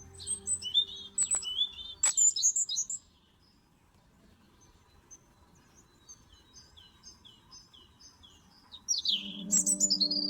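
Songbirds singing: bursts of high chirps and warbling phrases in the first three seconds, a faint run of short repeated notes later on, and loud calls again near the end. Background music fades out early and comes back near the end.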